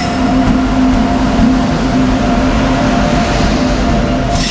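Electric locomotive rolling past at close range as a train pulls into the platform: a loud, steady low hum with a higher tone above it over the rumble of the wheels.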